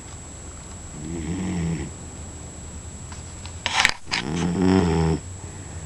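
A sleeping dog snoring: two snores about three seconds apart, each lasting about a second, with a short sharp noise just before the second.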